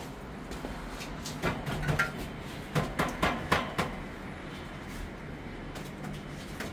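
A cluster of short knocks and clicks over a steady low hum, from about a second and a half in to past the middle.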